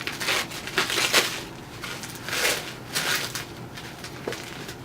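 Packaging being handled during an unboxing: several bursts of crinkling and rustling, loudest about a second in.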